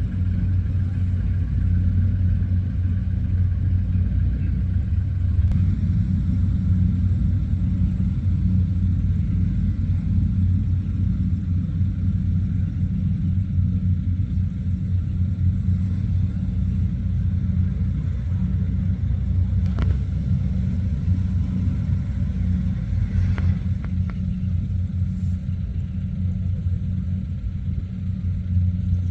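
Rice combine harvester's diesel engine running steadily under load, a loud, even low drone with no change in pitch.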